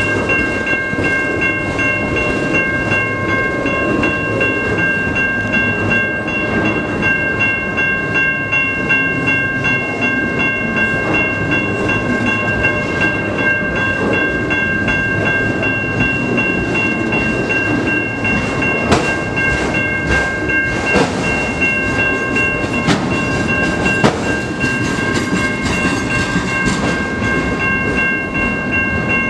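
Freight train cars rolling slowly over a grade crossing, the wheels rumbling and clattering, with a few sharp clanks a little past the middle. The crossing's warning bell rings steadily over it all while the train occupies the crossing.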